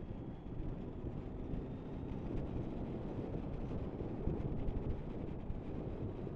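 Motorcycle riding at road speed: a steady low rumble of wind on the microphone and road and engine noise, with no sudden sounds.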